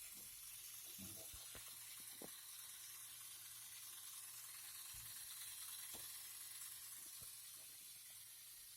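Faint steady hiss with a few soft, scattered clicks.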